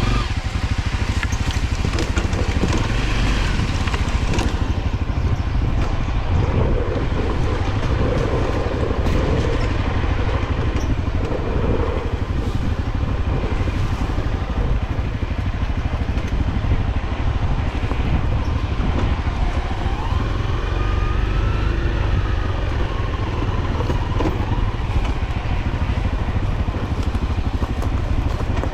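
Off-road motorcycle engine running steadily, with wind and rumble on the microphone.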